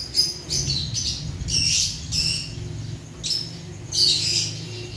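Small birds chirping in short high calls every second or so, over a steady low rumble.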